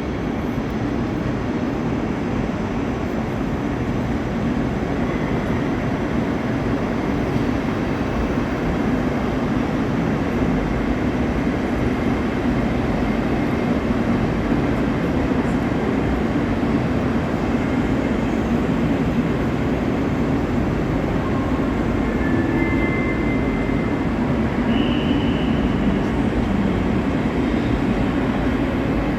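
Steady rumble of a train at a station platform, even throughout, with a couple of brief faint high tones past the middle.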